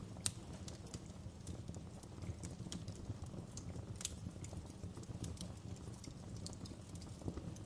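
Wood fire burning in a fireplace: a steady low rumble of flames with irregular crackles and pops, the sharpest pop just after the start and another about four seconds in.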